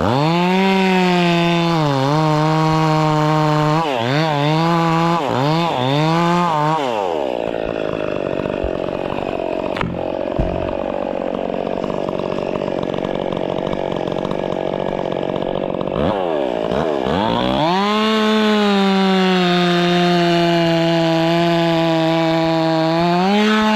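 Chainsaw engine at high revs, blipped up and down several times. About seven seconds in the revs drop and the sound turns rough for roughly nine seconds as the chain cuts into wood, then the saw runs back up to steady full throttle.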